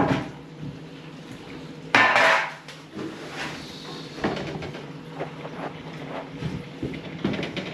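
Clinks and knocks of hard objects, metal or crockery, being handled. A louder clatter comes about two seconds in, then a run of small sharp clicks over the last few seconds.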